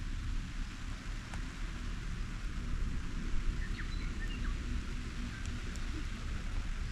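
Steady rain falling, with a low wind rumble on the microphone. A few faint, short high chirps sound about four seconds in.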